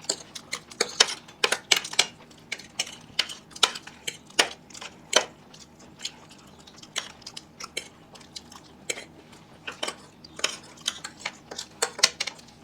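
Eating utensils clinking and scraping against plates in quick, irregular taps, as several people eat with a spoon, a fork and chopsticks.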